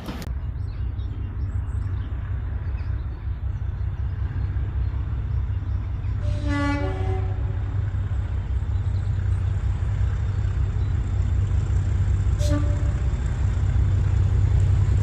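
Locomotive horn sounding a two-note blast about six seconds in, then a short toot near the end, over a steady low rumble from the train that slowly grows louder.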